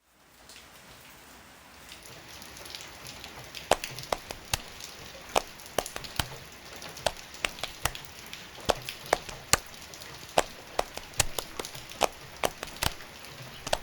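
Rain falling steadily, with large drops tapping irregularly and sharply on a hard surface. The rain grows louder about two seconds in, and the separate drop taps begin shortly after.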